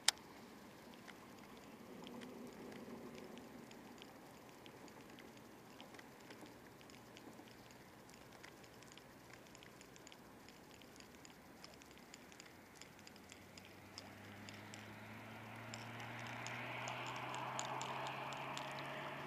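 Faint outdoor sound on the water: scattered small ticks and patter, and from about two-thirds of the way in, a faint low hum that slowly grows louder.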